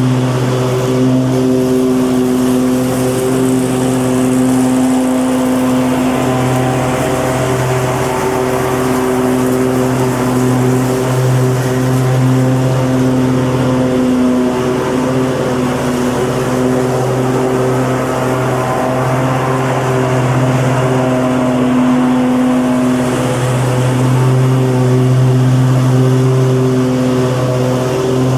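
Petrol lawn mower engine running steadily at a constant speed, a low even drone with slight wavers in pitch and a hiss of noise over it.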